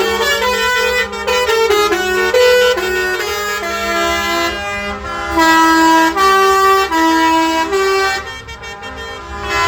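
A loud melody of held notes stepping up and down over a steady low drone, from a reedy wind or horn source, dipping briefly near the end.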